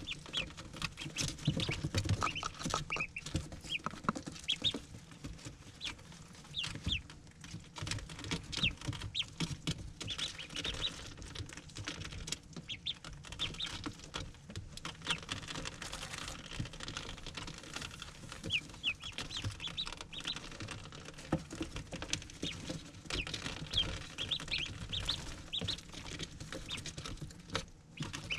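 Ducklings peeping in many short, high chirps, with small taps and scratches of feet moving about.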